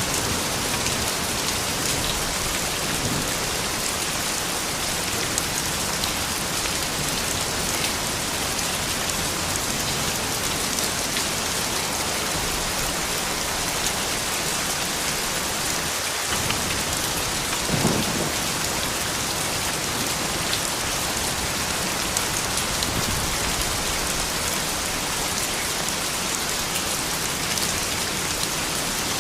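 Steady soft rain falling and pattering on surfaces, with one brief louder knock about two-thirds of the way through.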